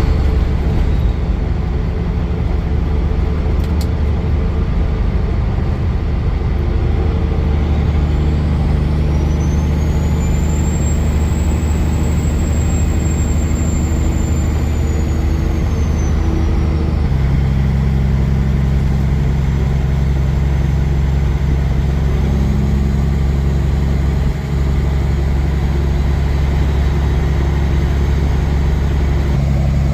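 Kenworth semi truck's diesel engine and road noise heard inside the cab while cruising, a steady drone whose pitch steps to a new level about halfway through. A faint high whine rises and falls in the middle.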